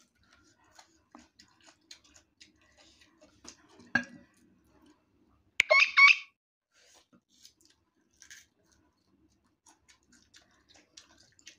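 Crunchy chewing of raw green mango, heard as scattered faint crisp clicks, with a knock about four seconds in. The loudest sound is a short, high squeak in two quick parts around six seconds in.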